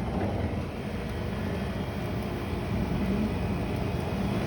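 GE 30-pint dehumidifier running steadily just after start-up: an even, pretty quiet compressor hum under the whoosh of its fan.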